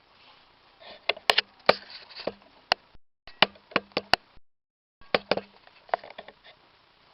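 A series of sharp knocks and clicks, about a dozen, starting about a second in: the parts of a Bialetti Moka Crem stovetop coffee maker being handled and knocked together.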